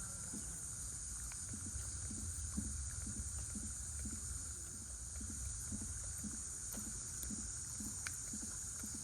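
Outdoor summer ambience dominated by a steady high-pitched insect drone, typical of a cicada chorus, over a low rumble, with a soft low pulse repeating about twice a second.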